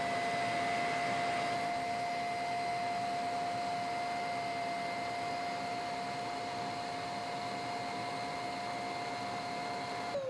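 A 450 W mattress vacuum cleaner's motor running with a steady high whine over rushing airflow. About ten seconds in it is switched off, and the whine falls away as the motor spins down.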